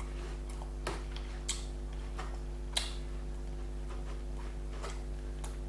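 A few light, separate clicks and taps from handling a food container and its leftovers, over a steady electrical hum.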